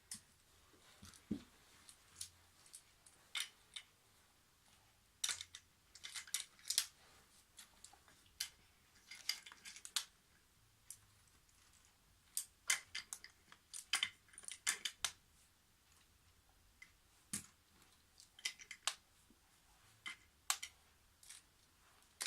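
Wooden toy train track pieces clicking and clattering as they are handled and fitted together, in irregular single knocks and quick clusters.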